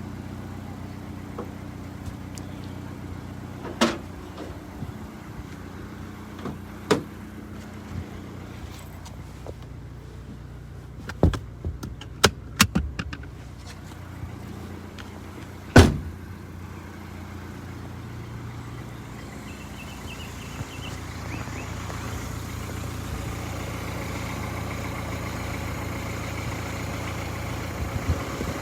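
Car engine idling steadily, with a scatter of knocks and clicks over it, the loudest a single thump about sixteen seconds in; the idle grows a little louder in the second half.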